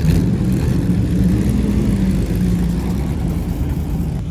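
Dirt-track race car engines running, a loud steady drone with a wavering low engine note.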